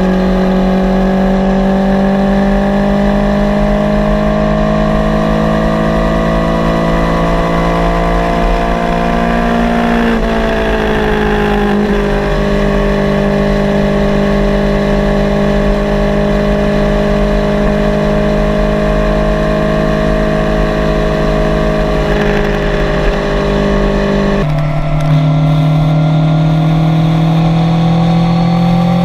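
Kawasaki Z900's inline-four engine pulling under way, its pitch climbing slowly in gear. The pitch steps down about ten seconds in and again sharply near the end, then climbs again.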